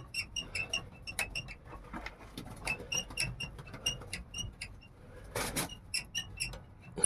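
Small animals squeaking: a quick run of short, high chirps, about three or four a second, with a brief rustling burst about five and a half seconds in.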